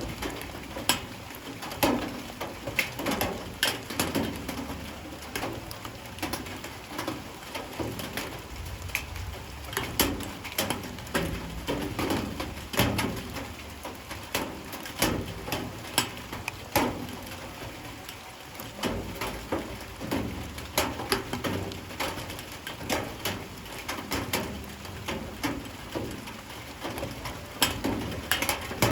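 Light rain, with drops landing irregularly on hard surfaces as a stream of uneven taps and clicks over a soft steady patter. A dove cooing can be heard in the background.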